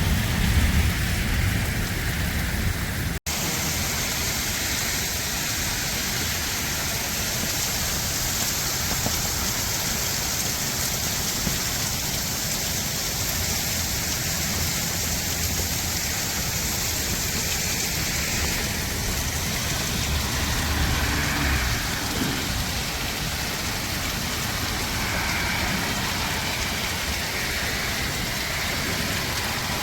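Heavy rain falling steadily, a constant hiss of rain on surfaces, with a heavier low rumble in the first few seconds. The sound breaks off for an instant about three seconds in.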